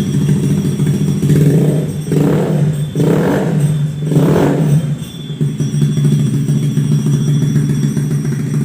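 Motorcycle engine idling through a CLD Monster aftermarket racing exhaust, with a few quick throttle blips in the middle before it settles back to a steady idle.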